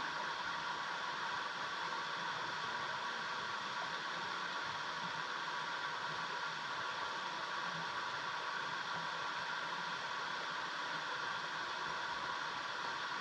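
Steady rushing of water in a mountain stream, an even hiss with no breaks.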